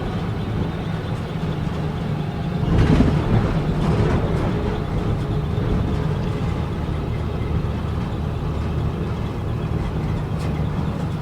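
Engine of an old grain truck running steadily while driving, a low drone with a short louder swell about three seconds in.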